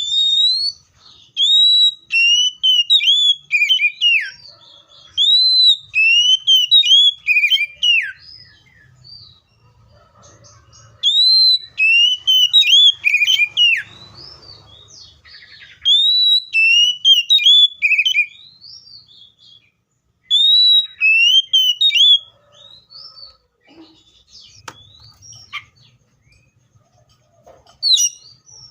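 Magpie-robin singing loudly: clear whistled notes that arch up and slide down, delivered in phrases of a few seconds with short pauses between, and one brief phrase near the end.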